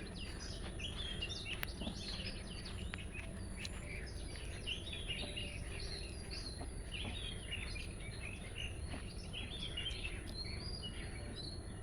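Several birds chirping and twittering in short, scattered calls over a low steady background noise, with a faint, steady, high thin whine throughout.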